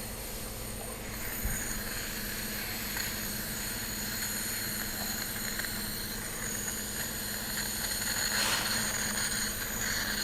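Steady mechanical hum with constant high-pitched whines, a machine running in the background. A brief rush of noise comes about eight seconds in.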